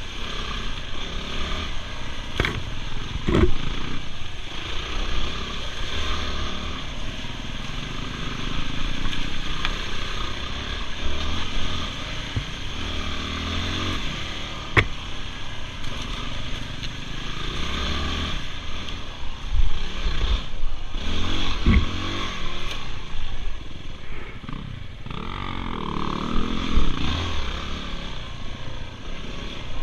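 Dirt bike engine running and revving while ridden, its loudness rising and falling, with a few sharp knocks.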